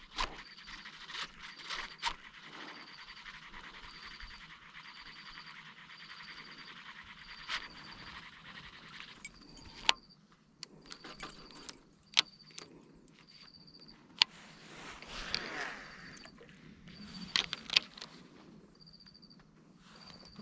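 Baitcasting reel being cranked to retrieve the lure, a steady rattly whirr that stops about nine seconds in, with sharp clicks and knocks of the rod and reel now and then.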